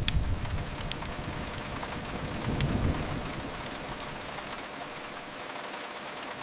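Steady rain hissing against a window, with sparse sharp crackles from a wood fire. A low rumble swells briefly about two and a half seconds in.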